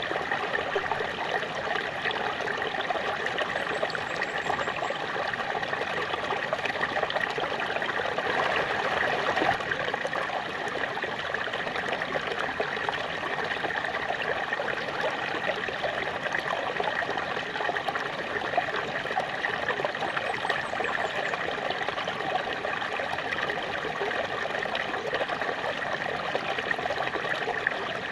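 Small waterfall: water falling and trickling in a steady, even rush.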